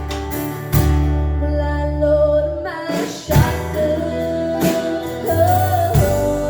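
Live band music mid-song: strummed chords over held low bass notes that change every second or two.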